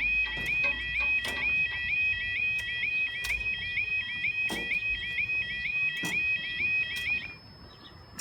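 Level crossing yodel alarm warbling in a fast, even repeating rising sweep, then cutting off suddenly about seven seconds in. A few knocks sound alongside it.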